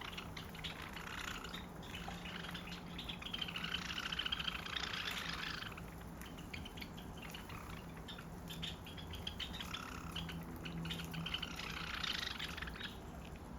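A flock of Java sparrows chattering with rapid, overlapping chirps. The twittering grows denser and louder in two bouts, one about a third of the way in and one near the end.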